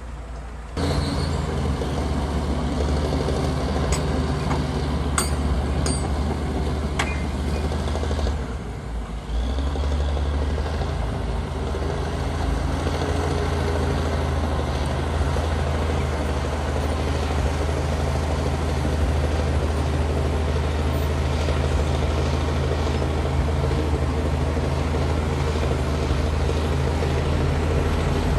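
Komatsu D60P bulldozer's diesel engine running steadily under load. It gets louder about a second in and eases off briefly around nine seconds. A few sharp metallic clinks sound between about four and seven seconds.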